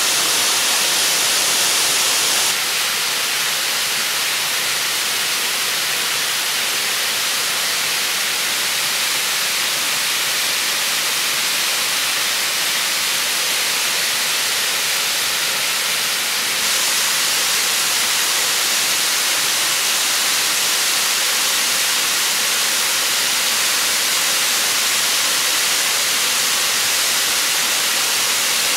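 Waterfall rushing steadily, a dense, even hiss with no breaks. It gets slightly quieter about two seconds in and louder again a little past the middle.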